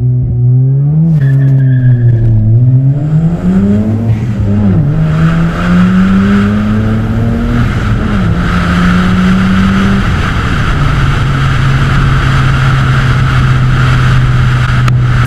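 Mazda RX-7 FD3S's twin-turbo 13B rotary engine accelerating through the gears: its pitch climbs and drops at each shift three times, then settles to a steady cruise about ten seconds in. A rush of wind and road noise builds as the car gathers speed.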